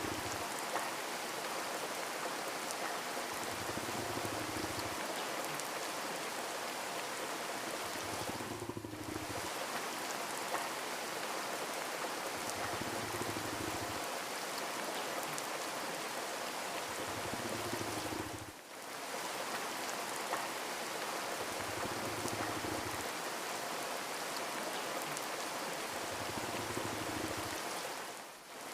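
Steady rain falling, a dense even hiss, with a low hum that swells and fades about every four and a half seconds. The rain briefly dips in level about every ten seconds.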